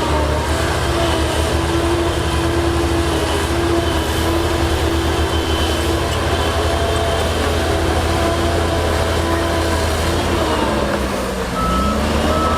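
Heavy diesel engine of earthmoving equipment running steadily under load, its pitch sagging and picking up again near the end. A high reversing alarm starts beeping near the end.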